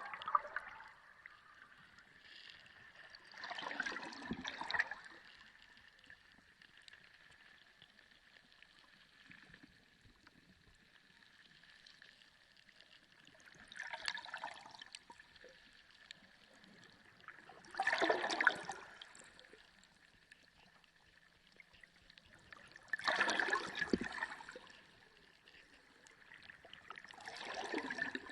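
Water sloshing and gurgling in short swells every few seconds, the loudest about two-thirds of the way through, over a faint steady high tone.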